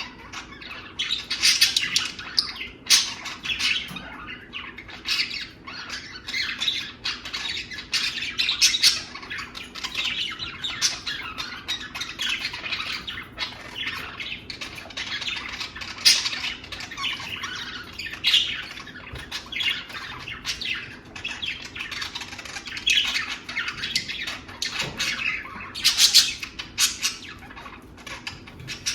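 Pet budgerigars chattering and warbling non-stop, a dense run of short chirps and squawks, with a few louder squawks about halfway through and near the end.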